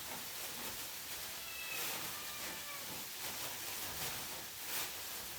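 Rice frying in a wok with a steady low sizzle, and a couple of short scrapes or knocks of the spatula as the rice is broken up.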